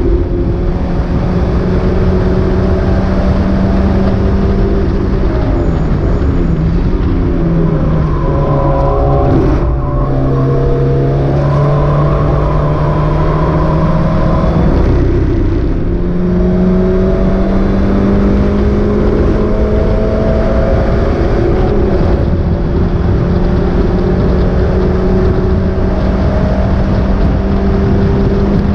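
Mazda MX-5 race car engine running hard at racing speed. The revs drop about a quarter of the way in, stay lower for several seconds, then climb again about halfway and hold steady. The car was running with a misfire in this race.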